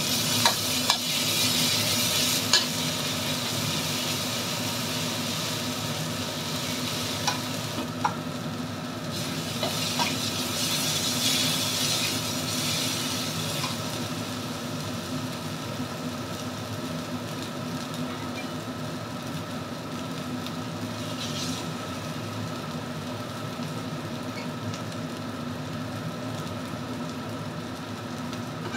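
Ground spice paste sizzling in hot oil in a metal wok as it is stir-fried with a metal spatula, with occasional clicks and scrapes of the spatula on the wok. The sizzle swells near the start and again about ten seconds in, over a steady low hum.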